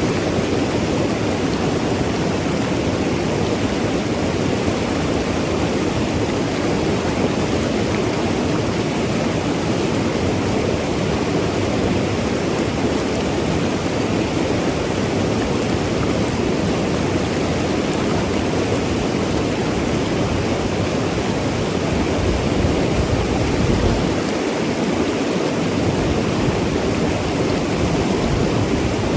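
Mountain river rushing and tumbling over rocks: a steady, unbroken wash of water noise.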